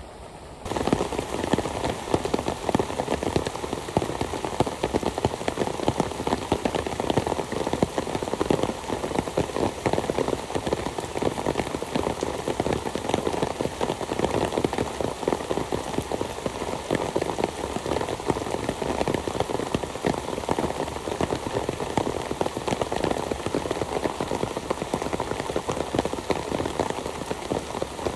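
Heavy rain falling, a dense, steady rush of many small drop impacts that starts abruptly about a second in.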